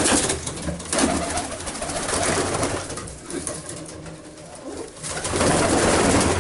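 Domestic pigeons cooing in a small coop, several birds at once in a low rolling chorus that swells near the start and again near the end.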